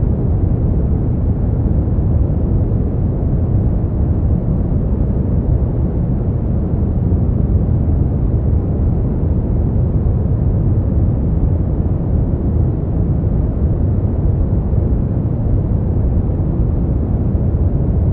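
Steady generated sleep noise: an even, deep rush with most of its weight in the low end and no high hiss. It stays unchanged throughout.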